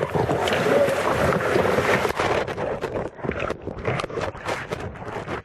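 Whitewater rushing and splashing around a kayak running a rapid. From about two seconds in the sound turns muffled and choppy, with many sharp splashes and knocks.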